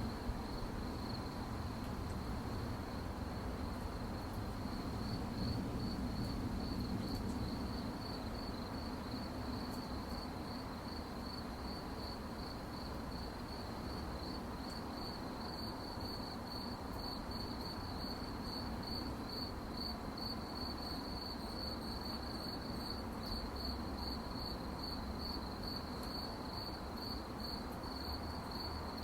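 Crickets chirping at night in a steady, evenly pulsed high-pitched trill, over a low steady background rumble.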